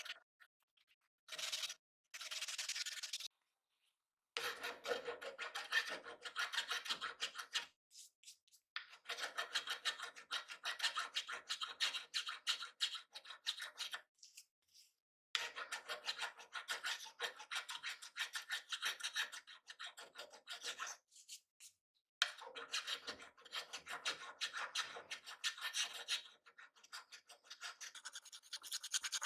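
Hand rubbing or scraping with an abrasive, made of quick back-and-forth strokes. The strokes come in stretches of several seconds with short pauses between them, and grow fainter near the end.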